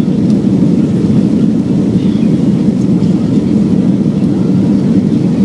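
Airbus A340-300 engines and airflow heard as a loud, steady low rumble from inside the cabin.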